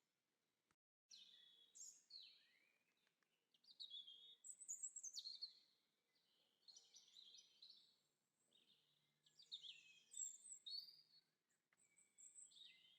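Songbirds singing, a run of quick high chirping phrases that sweep up and down in pitch, with a brief moment of total silence about a second in.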